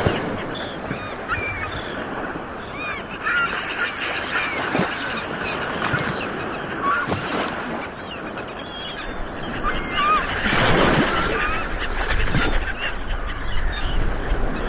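Ocean waves rolling and breaking on a shore, a steady wash that swells about ten seconds in, with many short squealing bird calls over it throughout.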